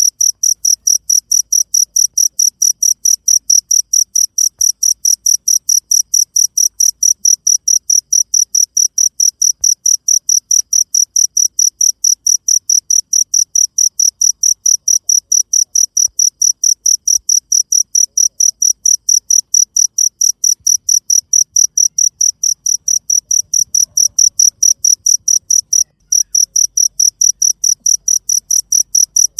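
Cricket chirping in a steady, even rhythm of about four high-pitched chirps a second, with a momentary break near the end.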